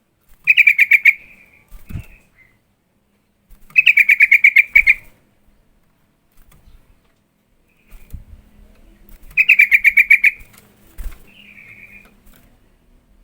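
Sooty-headed bulbul calling: three loud bursts of rapid, evenly repeated chattering notes, each about a second long, with softer short calls between them.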